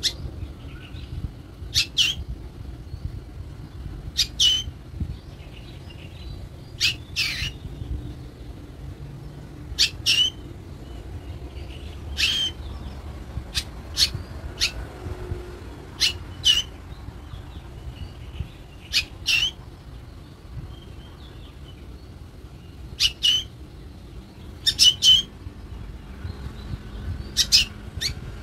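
A pet black bird giving short calls, many in quick pairs, every one to three seconds: a hungry bird begging for food.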